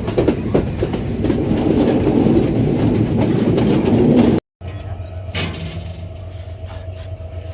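Colombo–Badulla night mail train running on the rails: a loud, dense rumble with rattling clicks. About four and a half seconds in it cuts off abruptly, and a quieter steady hum with a faint steady tone follows.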